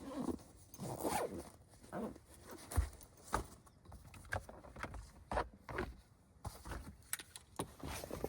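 A zipper being pulled in a series of short, irregular strokes.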